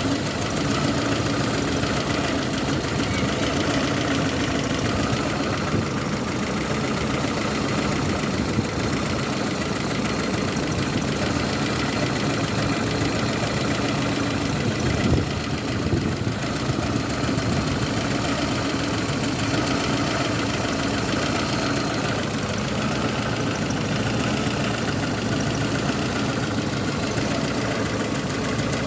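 Lada Kalina engine idling steadily, with one brief bump in level about halfway through. The engine has just had its throttle body cleaned and its rubber parts replaced where a vacuum leak was suspected.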